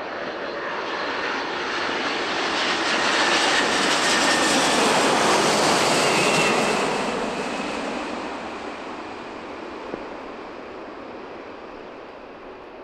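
Boeing 747 jet engines as the airliner flies past on its landing approach: the noise swells to a peak about halfway through, with a faint whine on top, then slowly fades away.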